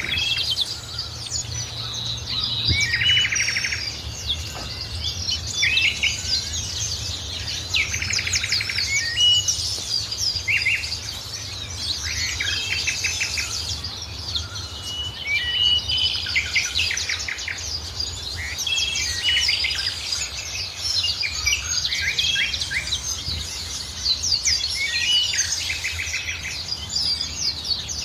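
Several wild birds singing and chirping together, with short rapid trills recurring every couple of seconds among higher, quicker calls, over a steady low rumble.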